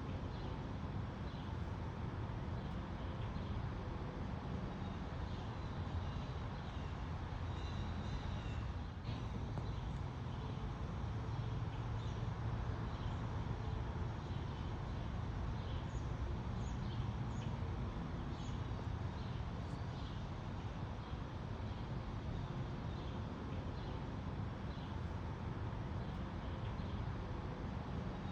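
Outdoor ambience: birds giving many short chirps and calls over a steady low rumble.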